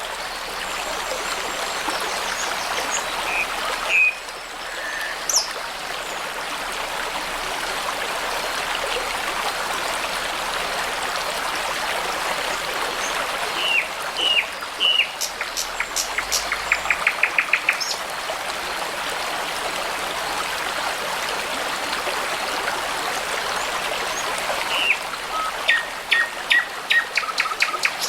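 Brook babbling steadily, with birds singing short phrases over it: a few notes a few seconds in, three falling notes followed by a fast rattling run in the middle, and a series of quick repeated notes near the end.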